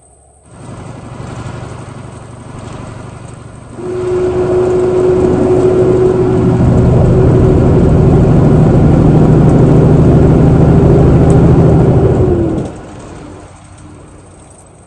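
Truck engine pulling hard under load: it picks up, then about four seconds in jumps to a loud, steady drone for about eight seconds, and falls away suddenly as the throttle is let off.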